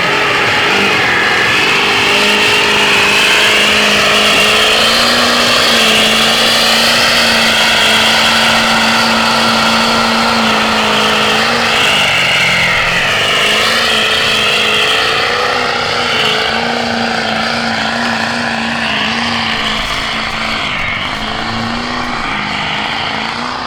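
Off-road vehicle engine running hard at fairly steady high revs, its pitch wavering up and down, dipping briefly about halfway through and easing off right at the end.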